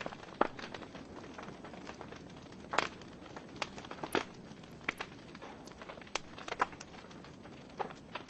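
Wood fire burning in a fireplace: a soft steady hiss with irregular sharp crackles and pops from the burning logs, the loudest coming about a third of the way in and again near the middle.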